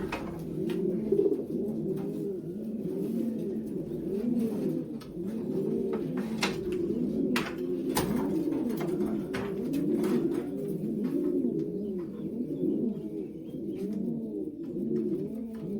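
Racing pigeons cooing: many overlapping coos without a break, with a few sharp clicks scattered through.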